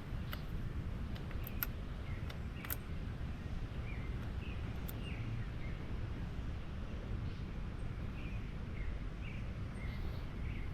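Birds chirping in short repeated calls over a steady low rumble of wind or microphone noise, with a few faint sharp clicks in the first few seconds.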